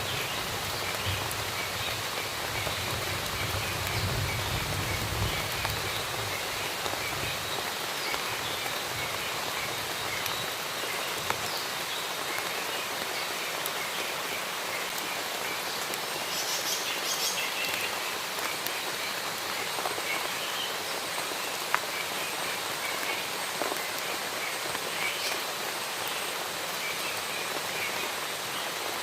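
Steady rain falling on forest foliage, with birds chirping now and then through it and a few sharp drip ticks.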